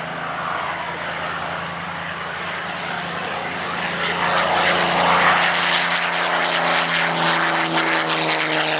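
Propeller aircraft flying past with its piston engine running steadily, growing louder about four seconds in as it comes closer.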